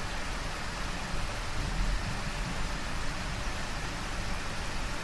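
Steady hiss with a low rumble underneath, no tones or distinct events.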